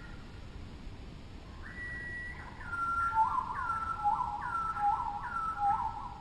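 A bird singing in clear whistles. It gives a held note, then a phrase of a short downward slur followed by a lower rising-and-falling note, repeated about four times in quick succession.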